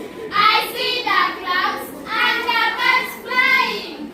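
A group of children singing together in unison, in short phrases.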